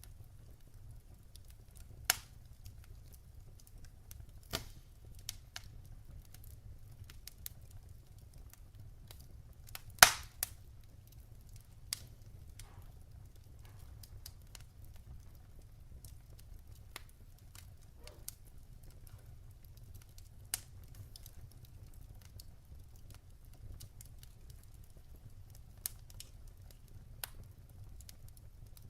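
Wood fire burning in a fireplace: a low rumble with scattered sharp crackles and pops from the logs, one loud pop about ten seconds in.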